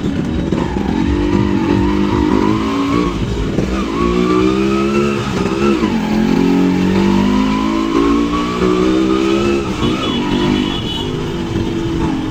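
Two-stroke Yamaha RX100 motorcycle engine accelerating: its pitch climbs, drops sharply at gear changes about four and six seconds in, then climbs again for a long stretch before easing off near ten seconds.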